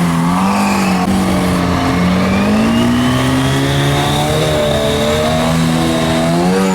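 A pulling truck's engine running hard at high revs under the load of the sled, its pitch wavering up and down, with a faint high whine climbing slowly through the middle.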